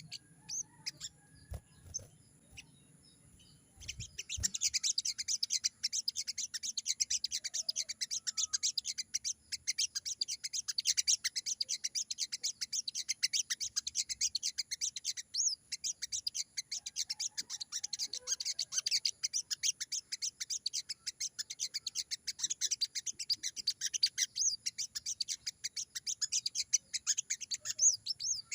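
Sogon bird twittering fast and without pause: a dense run of rapid, high chirps that starts about four seconds in, after a few scattered chirps.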